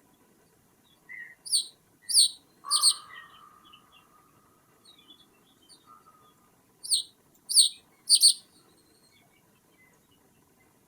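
Bird calls: two groups of three short, sharp, falling calls, about four seconds apart. Faint chips are heard between the groups.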